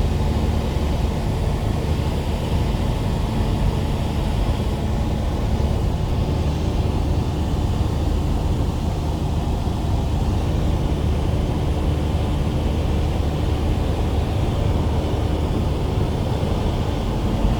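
Cessna light aircraft's engine and propeller running with a steady drone, holding the same pitch throughout.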